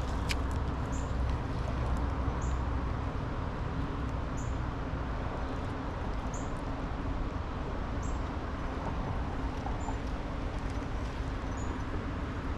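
A bird's short, high chirp repeated about every one to two seconds over a steady low background rumble outdoors, with one sharp click just after the start.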